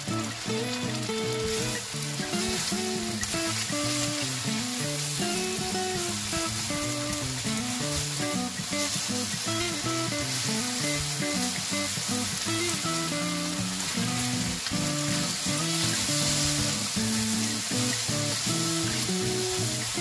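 Beef slices sizzling steadily as they fry in hot oil in a non-stick wok while being stirred with a silicone spatula, with background music playing over it.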